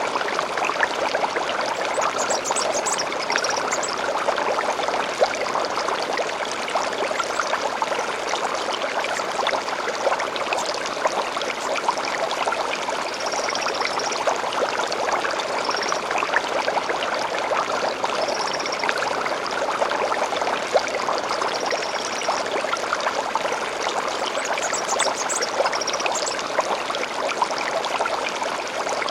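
Gentle stream flowing and babbling steadily, with short high bird chirps every few seconds.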